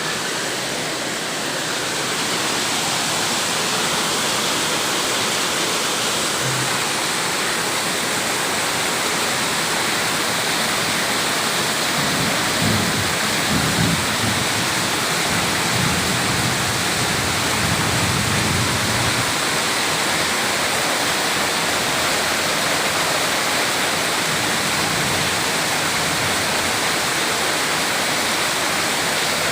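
Rain pouring steadily in strong wind, with low rumbling gusts about halfway through.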